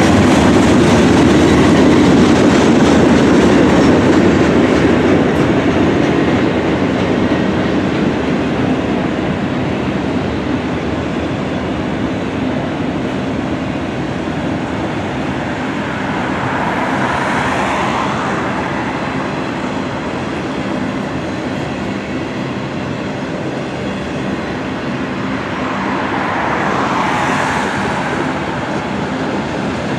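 Freight train rolling past: a steady rumble and rattle of autorack and tank cars on the rails, heaviest in the first few seconds, then easing. Two brief swells of hiss rise over it, the second from a car driving by on the road beside the track.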